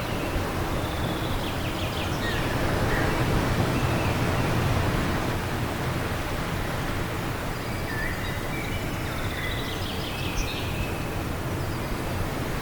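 Steady wind with small birds chirping and trilling in two short spells, about two seconds in and again from about eight to eleven seconds in.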